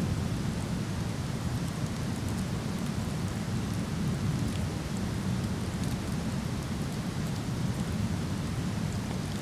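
Steady roar of a waterfall, heaviest in the low range, with faint crackles of a wood fire scattered through it.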